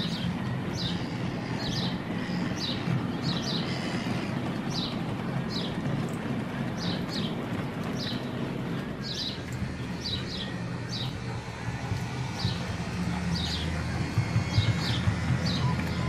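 A bird calling over and over with short high chirps, about one or two a second, over a low steady rumble that grows a little louder near the end.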